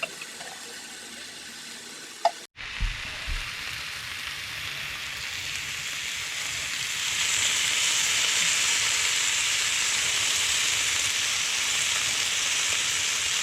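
Food frying in a skillet over turned-up heat: a steady sizzle that grows louder over a few seconds and then holds. It follows a quieter stretch with a few small clicks and a brief dropout.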